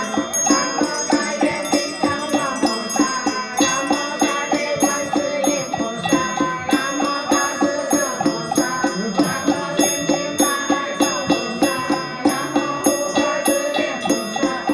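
Music of struck bells and chimes ringing over a steady beat of about three strikes a second.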